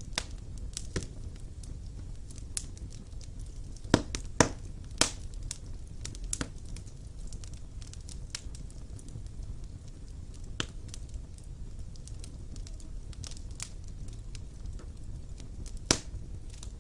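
Wood fire burning in a stone fireplace, crackling with scattered sharp pops and snaps over a low steady rumble of flames. A cluster of louder pops comes a few seconds in, and another near the end.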